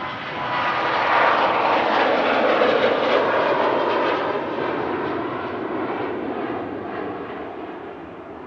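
Boeing 737-800 jet airliner's CFM56 turbofan engines at takeoff thrust as the plane goes past. The roar swells to its loudest about one to three seconds in, with a whine that falls in pitch, then slowly fades.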